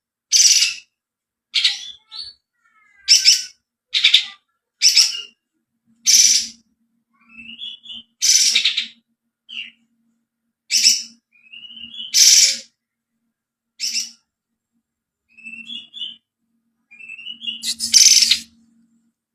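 Kapas tembak songbird singing in short, loud, harsh bursts about once a second, with a few softer rising whistled notes between them.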